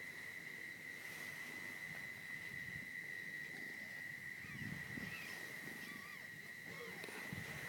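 Faint cat sounds: a few short, faint mews in the second half, with low rumbly stretches, over a steady high-pitched whine.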